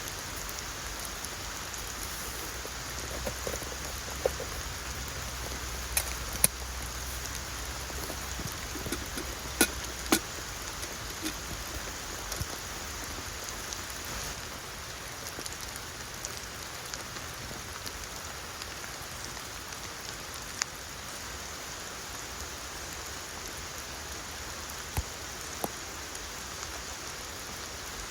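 Steady rain falling, with a scattered handful of sharp taps from single heavier drops or knocks standing out above it. A faint low rumble runs beneath for the first few seconds and then fades.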